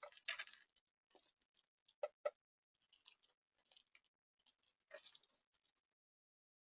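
Irregular small clicks and crunches of animals feeding close to the microphone at a seed feeder, with two sharp clicks about two seconds in. Stops about a second before the end.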